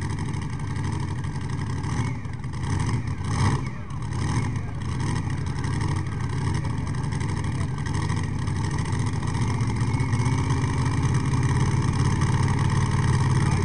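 Pulling tractor's engine running hard and steady, growing a little louder toward the end, with a few brief sharper noises about two to five seconds in.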